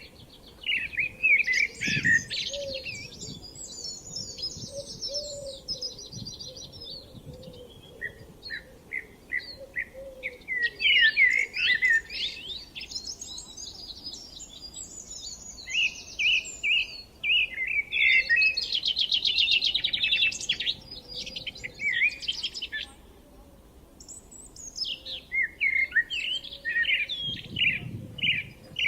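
Several songbirds singing at once: quick chirps and rapid trills overlapping, with a short lull about two-thirds of the way through.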